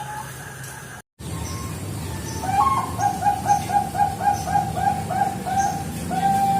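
Zebra dove (perkutut, Bangkok strain) cooing. After a brief cut just after a second in, it gives a rapid run of short, evenly spaced coos, about four a second, ending on one longer held note.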